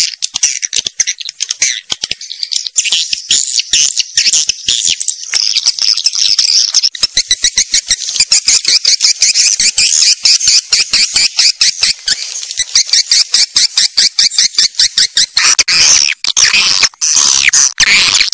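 Swiftlets chattering: a dense, continuous run of rapid high-pitched chirps and clicks. About 15 seconds in, louder sweeping calls join. This is a swiftlet call recording of the kind played to lure birds into a swiftlet house.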